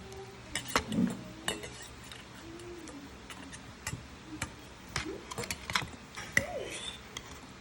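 Metal utensil clinking and scraping against a bowl in irregular taps while mashed egg is worked.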